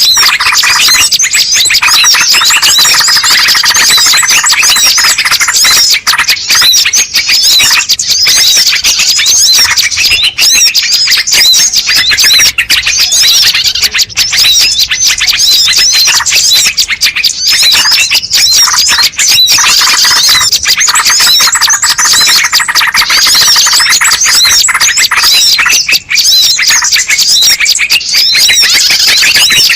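Bird-lure recording: a dense chorus of many small birds chirping and squeaking over one another without a break, played loud to draw wild birds in.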